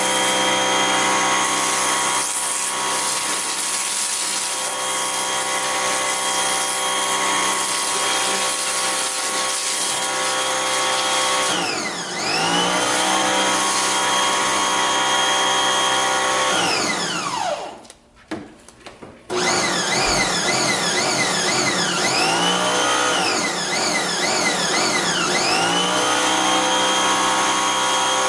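Pressure washer motor and pump running with spray hiss while foam is sprayed through a foam cannon. The motor's pitch sags and recovers about twelve seconds in. It cuts out for a second or two past the middle, then spins back up with a wavering pitch for a few seconds before settling.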